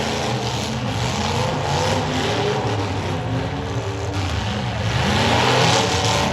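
Several demolition derby car engines running and revving at once, their pitches rising and falling over one another.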